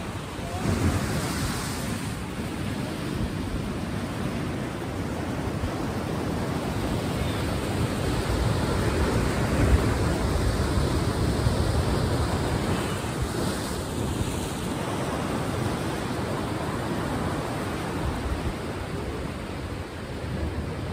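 Ocean surf: a steady rush of waves washing in, swelling louder around the middle and easing off again.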